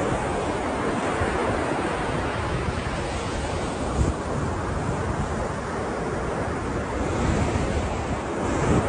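Ocean surf: a steady rush of waves washing in, with brief swells in loudness about four seconds in and again near the end.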